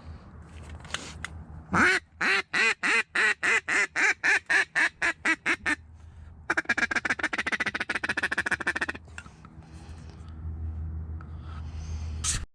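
Mallard duck call blown by a hunter: a run of about sixteen evenly spaced quacks, about four a second, loud at first and fading off, then a fast rattling feed chuckle for about two and a half seconds.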